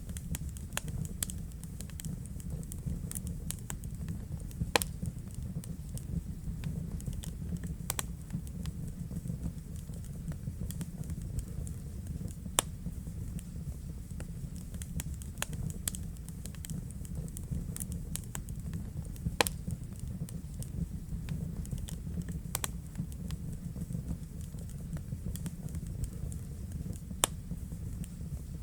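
Wood fire burning in a fireplace: a steady low rumble of the flames with frequent small crackles and a handful of sharper pops scattered through.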